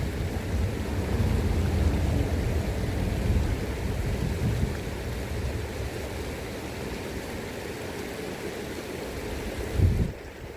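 River current flowing steadily, with wind rumbling unevenly across the microphone. The rumble is stronger in the first half and has a brief loud gust near the end.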